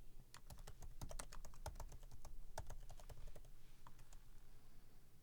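Typing on a computer keyboard: a quick run of key clicks for about three seconds, then a couple of last keystrokes before it stops.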